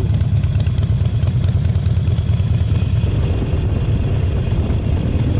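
Harley-Davidson Sportster V-twin engine running steadily with a deep, even throb through its stage-one Vance & Hines aftermarket exhaust, heard from the rider's seat.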